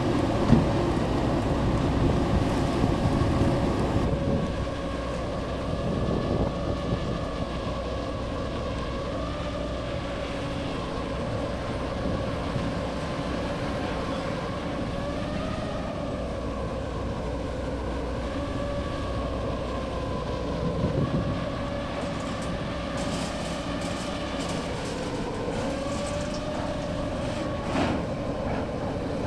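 Multirotor drone humming steadily, its motor-and-propeller pitch drifting gently up and down as it manoeuvres, over a low rumble.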